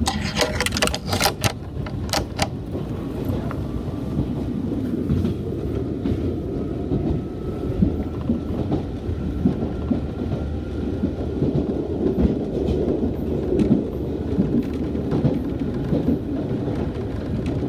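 Nishitetsu Kaizuka Line commuter train running, heard from inside the carriage: a steady rumble of wheels on rail, with a quick run of clicks in the first couple of seconds and a faint steady whine through the middle.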